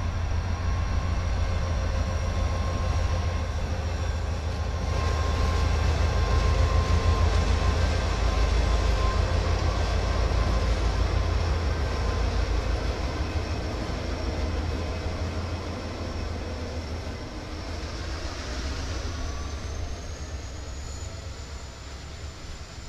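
Norfolk Southern freight train passing close by: the diesel locomotives' engines give a low pulsing rumble that is loudest in the first half, then fades as the covered hopper cars roll past on the rails. Near the end a faint high tone rises slightly.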